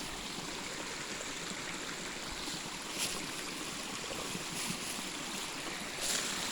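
Creek water rushing fast in a steady, even wash, with a brief faint knock about three seconds in and another near the end.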